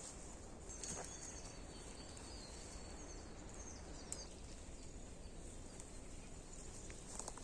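Faint woodland ambience: birds chirping now and then over a steady high hiss, with a few isolated clicks about a second and four seconds in.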